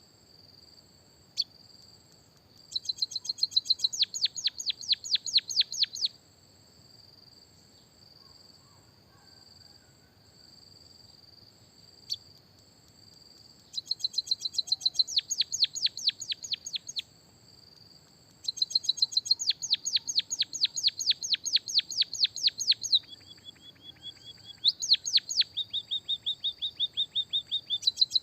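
Songbird recording of a white-headed munia song track with canary phrases: four runs of rapid, evenly repeated high chirps, about seven a second, each lasting several seconds, with a thin steady high whistle between them. One run near the end is lower-pitched. Two single sharp clicks, about a second in and about twelve seconds in.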